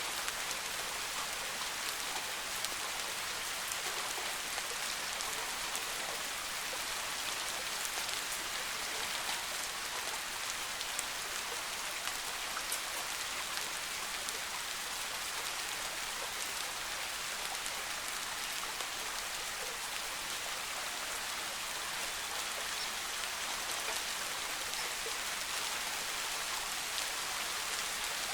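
Steady soft rain falling in a forest, a continuous hiss with scattered close drop ticks.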